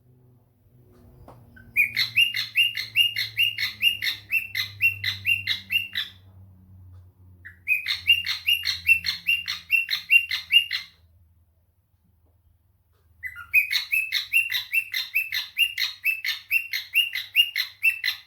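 Pet cockatiel chirping in three long runs of quick, evenly repeated notes, about four a second, with short pauses between runs.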